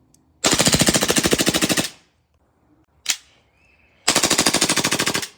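Airsoft Glock replica pistol firing on full auto: two rapid bursts of about a dozen shots a second, each lasting over a second, with a single sharp crack between them.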